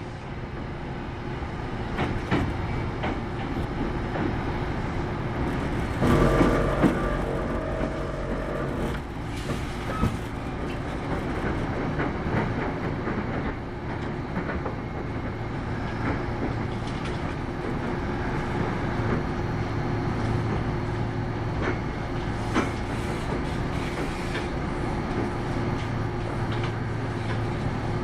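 Kintetsu 8810-series electric train running, heard from inside the passenger car: a steady rumble of wheels and motors with steady hum tones and scattered rail clicks. About six seconds in, a louder sound with a steady tone of its own lasts about three seconds.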